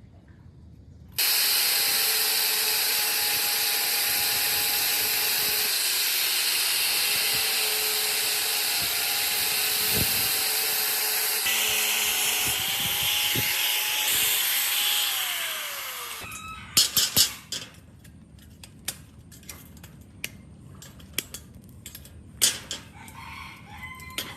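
Handheld electric power tool running steadily for about fifteen seconds, then winding down with a falling whine as it is switched off. A few sharp knocks follow, then scattered light clicks.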